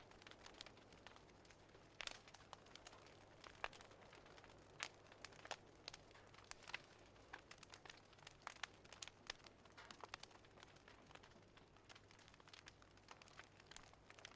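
Faint wood fire crackling: irregular sharp pops and snaps of varied loudness over a soft hiss.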